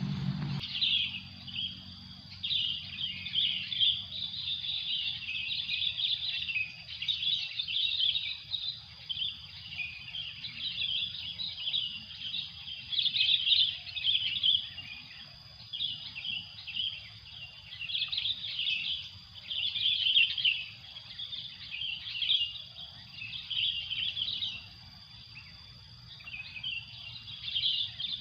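Small birds chirping and twittering in quick bursts every second or two, over a steady high-pitched tone.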